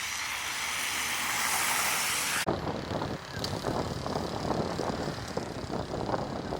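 Road vehicle noise: a hiss that builds for about two and a half seconds, then cuts off suddenly into a steady low rumble with uneven rattles.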